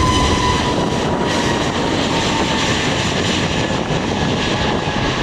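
Airbus A320neo's CFM LEAP-1A turbofan engines running at high power on departure: a steady, loud rush of jet noise with a high engine whine that slowly falls in pitch.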